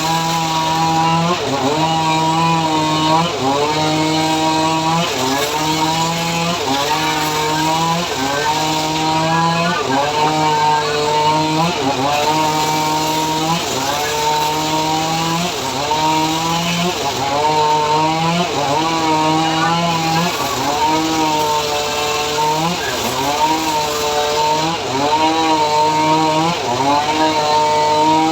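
Homemade engine-driven saw cutting sengon (albizia) wood: the small engine runs at high revs and its pitch dips and recovers about once a second as the blade bites into the log.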